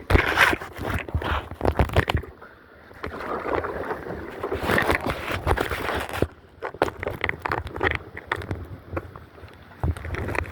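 Kayak on the water: splashing and small knocks against the hull, coming in irregular bursts with two short lulls.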